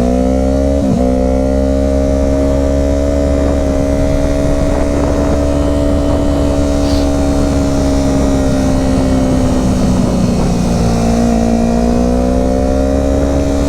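Motorcycle engine under way at a steady cruise, with heavy wind rumble on the microphone. Its pitch climbs at the start, dips briefly about a second in as if shifting gear, then holds. It eases down and climbs again near the end.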